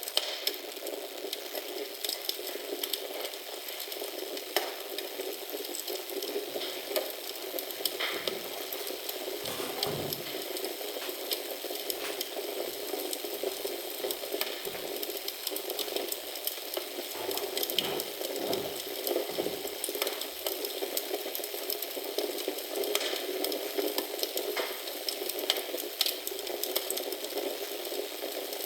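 Wood fire burning in a fireplace: a steady hiss with frequent sharp crackles and pops, and a few soft low thuds in the middle.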